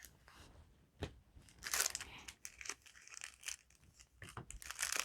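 Trading-card packaging being handled and torn open: irregular crinkling and tearing, with a short tap about a second in and a louder stretch of crinkling just before two seconds.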